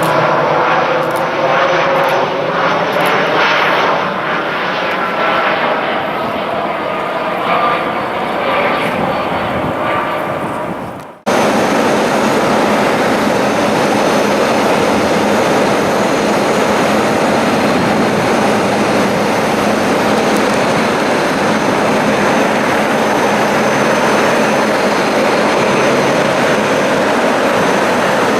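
Jet airliner engines, with tones sliding in pitch, fading slightly before an abrupt cut about eleven seconds in. After the cut comes a steadier, even jet roar with a thin high whine.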